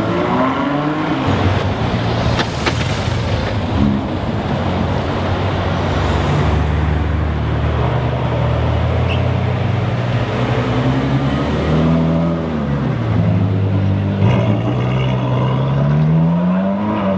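Supercar engines in slow street traffic, mainly a Ferrari F12berlinetta's V12 at low revs. Its pitch is steady for a while, then dips and climbs again in the second half as it pulls away.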